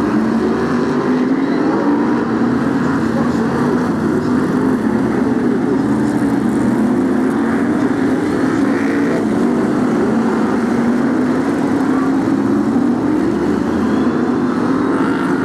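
A pack of BriSCA F1 stock cars racing, many V8 engines running hard together, their pitch rising and falling as the cars lap the oval.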